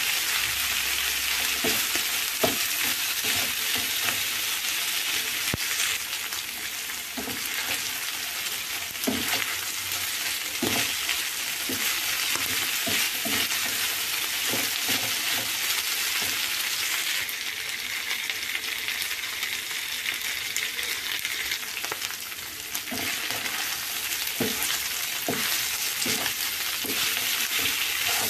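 Chicken livers sizzling as they fry in a non-stick frying pan, stirred with a wooden spatula that scrapes and taps against the pan now and then. The sizzle eases for a few seconds about two-thirds of the way through.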